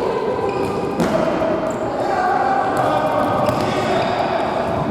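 Futsal ball being kicked and bouncing on a hard court, with a sharp thud about a second in, over players' shouts echoing in a sports hall.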